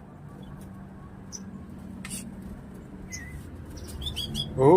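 Eurasian tree sparrow giving a few short, high chirps, scattered and spaced about a second apart, over a faint steady low hum. Right at the end a loud, drawn-out animal wail begins.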